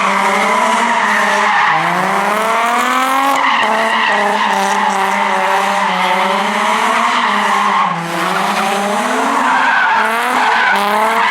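Car tyres squealing in one long, unbroken screech that wavers slowly in pitch, with a short dip in level about eight seconds in.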